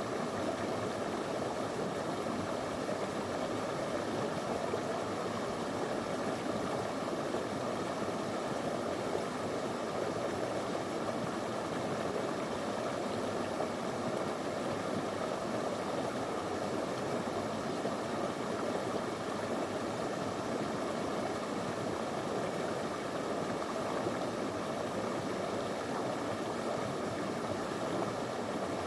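Small river flowing over stones: a steady rushing babble of water at an even level.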